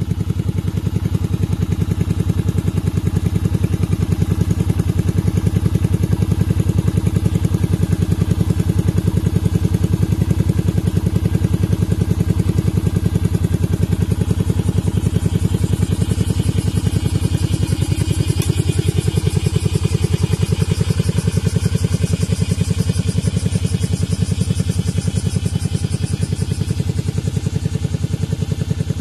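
Yamaha Virago 250 (XV250) V-twin engine idling steadily through a custom muffler, with an even, regular pulse of exhaust beats.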